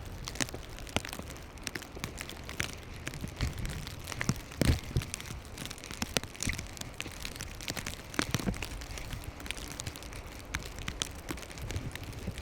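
Blizzard noise: wind-driven snow ticking irregularly against the microphone over a steady low wind rumble, with two louder thumps near the middle.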